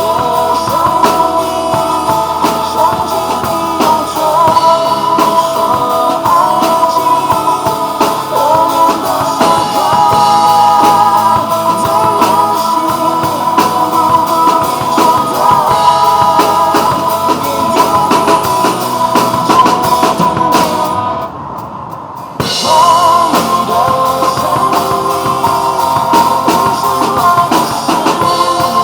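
Drum kit played live along to a recorded pop song with a sung melody and guitar. About 21 seconds in the drums and cymbals stop for a short break, then come back in.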